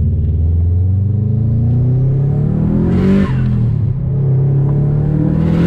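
Car engine revved twice. Each time the pitch climbs steadily for a couple of seconds, then drops back sharply.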